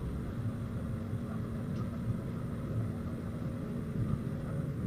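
Steady low background rumble with no distinct events, like traffic or engines nearby.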